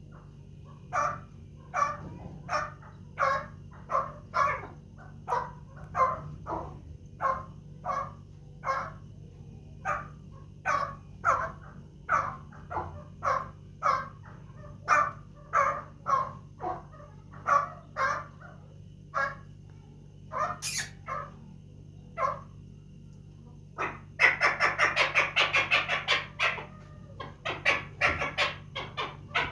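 Chukar partridge calling: single clucking notes about two a second, then, about 24 seconds in, a louder rapid chattering run of many notes. A brief sharp click comes shortly before the run.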